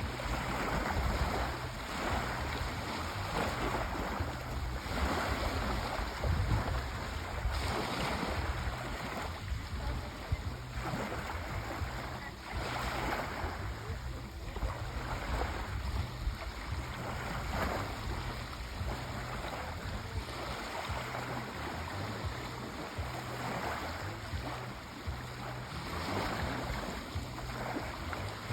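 Sea waves washing in, a soft surge every second or two over a steady low rumble.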